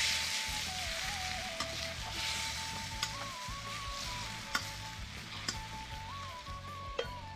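Chicken pieces sizzling in hot oil in a steel wok over a wood fire, stirred with a metal spoon that clicks against the pan a few times. The sizzle is strongest at the start.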